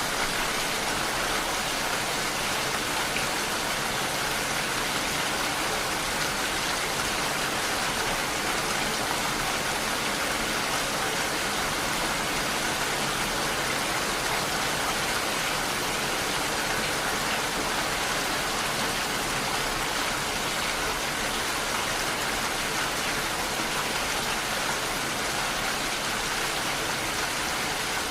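Steady rain falling, a dense even hiss with no thunder and no single drops standing out.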